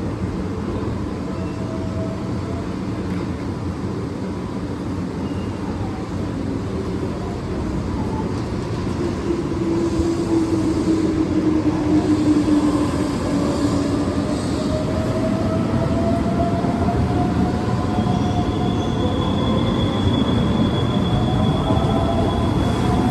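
Keihan 9000 series electric train pulling out and accelerating: a steady rumble grows louder about ten seconds in, then the motor whine climbs in pitch and a steady high tone joins it.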